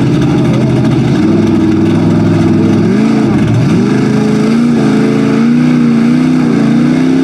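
Lifted Chevy mud truck engine revving hard under load, its pitch wavering up and down, with a sharp drop and climb back about three seconds in.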